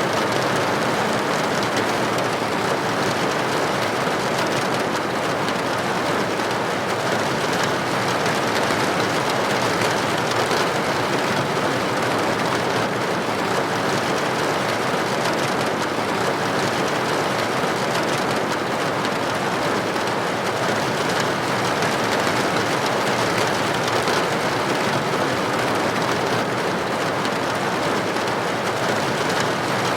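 Steady rain, droplets hitting a building window: an even, unbroken hiss of rain.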